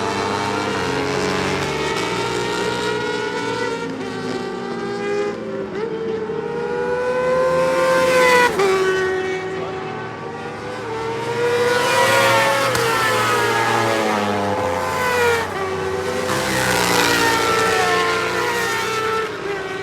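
BMW F900R motorcycle's parallel-twin engine revving hard. Its pitch climbs and drops several times as it runs through the gears and shuts off, with a sharp drop about eight seconds in.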